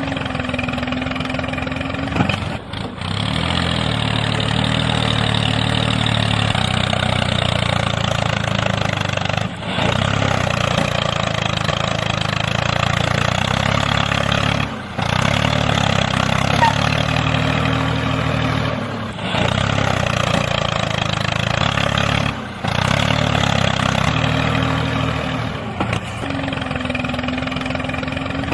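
A small tractor-like motor running steadily, with short drops in sound every few seconds.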